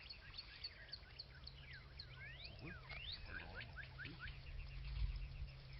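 Birds calling: a mix of short chirps and quick rising and falling whistled notes, with a rapid run of short repeated notes in the second half. A low steady hum sits underneath.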